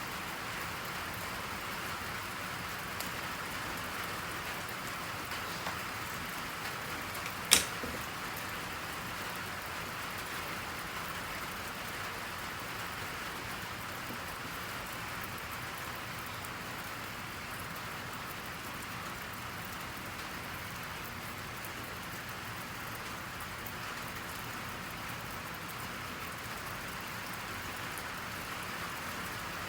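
Steady rain falling, an even hiss. About seven and a half seconds in, a single sharp click or tap stands out above it.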